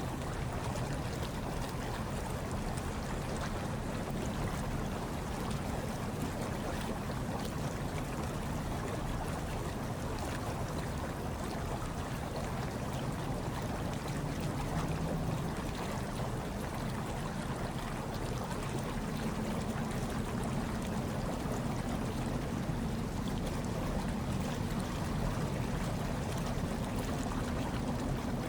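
Hot tub water bubbling and churning steadily, with a low rumble beneath and no distinct events.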